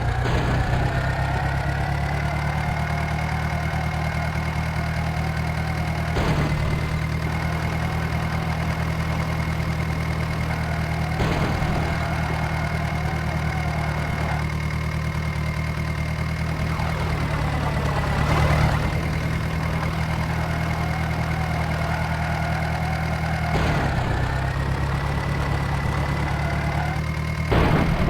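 Mahindra Arjun tractor's diesel engine running steadily, with a high steady whine over it that rises in pitch in the first two seconds and then holds. There are brief louder surges about every five or six seconds.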